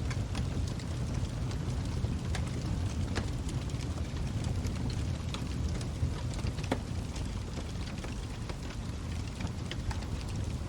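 Log fire burning in a fireplace: a steady low rumble of flames with irregular sharp crackles and pops from the burning wood. A few of the pops are louder, one about two seconds in, one about three seconds in and one near the middle.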